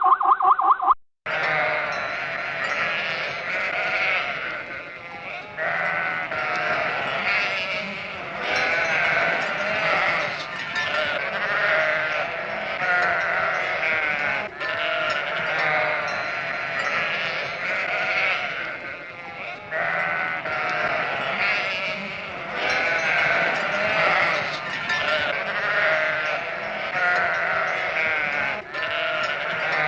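A short pulsing animal call is cut off about a second in, followed by a flock of sheep bleating, with many overlapping calls.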